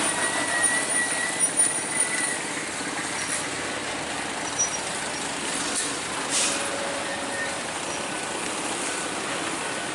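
Road traffic noise: vehicles passing, heard as a steady hiss and rumble, with a few short knocks in the first couple of seconds.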